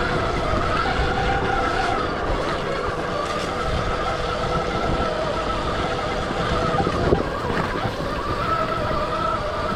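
Stark Varg EX electric dirt bike's motor whining, its pitch rising and falling with the throttle over a steady rough rumble, with one sharp knock about seven seconds in.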